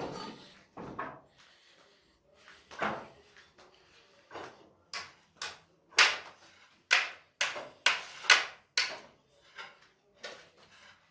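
About a dozen sharp knocks and clacks at irregular intervals, like parts or tools being knocked and handled during installation work. The strikes come close together in the middle of the sound.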